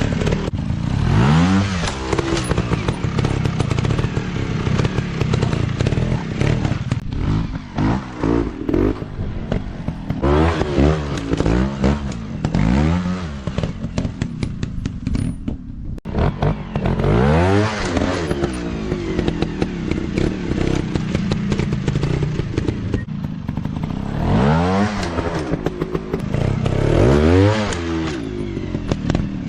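Dirt bike engines revving up and dropping back over and over, often in quick runs of two or three blips, over a steady engine sound.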